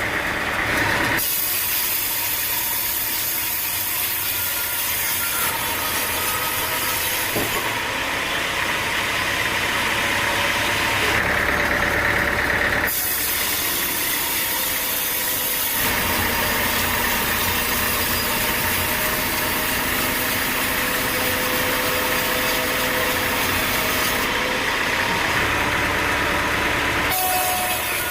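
Sawmill machinery running: an engine with a saw working through wood. The sound shifts abruptly several times.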